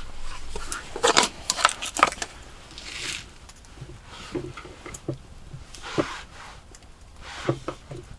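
Intermittent handling noises: short clicks, rustles and scrapes, bunched about a second in, near three seconds and again around six and seven and a half seconds.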